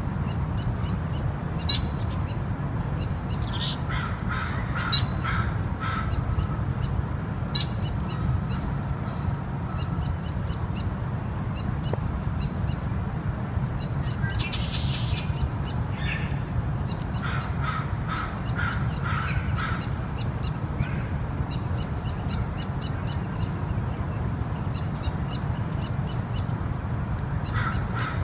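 Wild birds calling: a harsh call repeated in runs of four or five notes, three times, among scattered short high notes, over a steady low background rumble.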